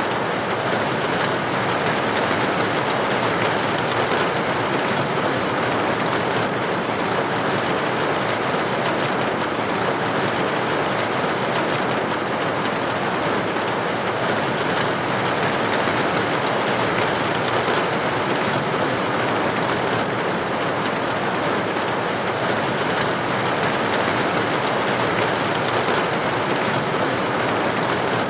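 Steady rain pattering on a window pane, an even, unbroken hiss of drops.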